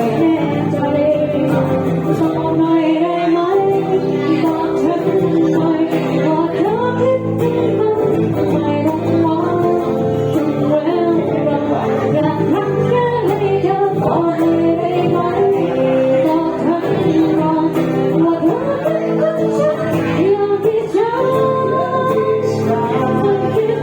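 A woman singing a melodic song over guitar accompaniment.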